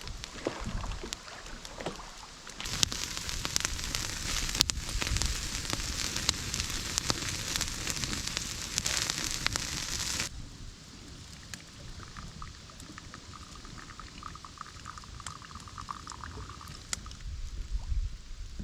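Sausages and smoked codfish sizzling and popping on a foldable grill over a campfire, with the fire crackling and wind rumbling on the microphone. The sizzle is loudest for several seconds, then drops off abruptly about ten seconds in to a quieter crackle.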